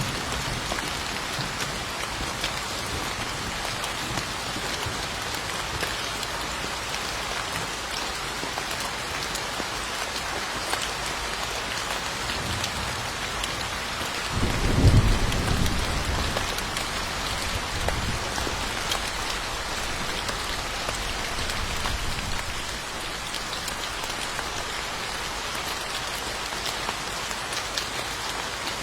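Steady heavy rain falling on surfaces, with a low rumble of thunder swelling about halfway through and fading over a couple of seconds.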